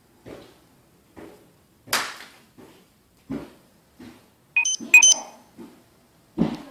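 Sharp cracks at about one a second, typical of a pet parrot biting into a hard treat with its beak. About four and a half seconds in comes a short, high, beep-like call, the loudest sound.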